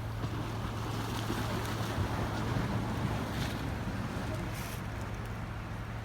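Ocean waves washing and splashing against rocks, with a few brief hissing splashes, over a steady low hum.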